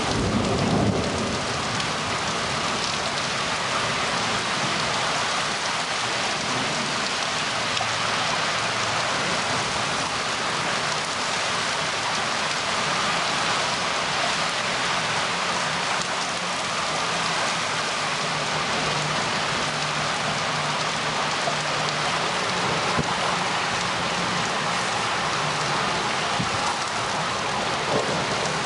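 Steady rain pouring down during a thunderstorm, with a low rumble of thunder about a second in.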